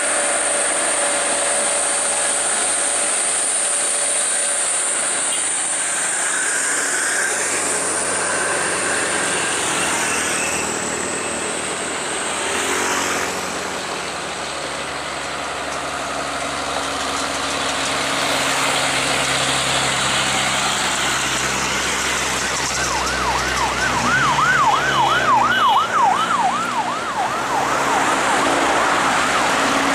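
Heavy traffic on a highway hill climb, trucks' engines running as they pass. About two-thirds of the way through, a siren sounds for a few seconds with a fast up-and-down warble, about three or four swings a second.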